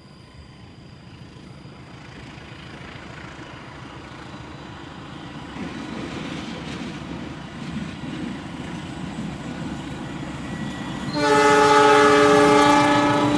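An approaching train, its running noise growing steadily louder, then the locomotive's horn sounding near the end: a chord of several tones held for about two seconds.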